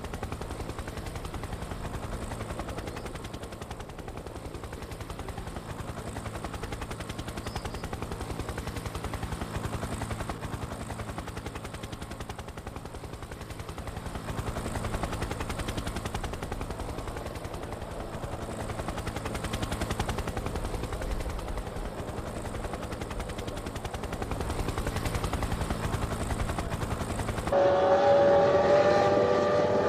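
Formula One cars' 3.0-litre V10 engines, heard as a low, rapid pulsing engine noise. About 27 seconds in it cuts to a louder, higher engine note whose pitch rises at the end as a car revs.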